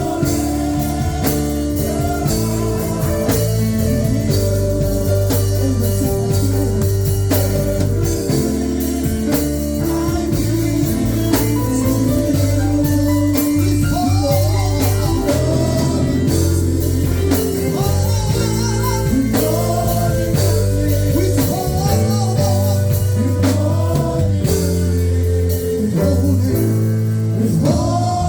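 Live worship music with singing over bass, guitar and drum kit, played at a steady loud level.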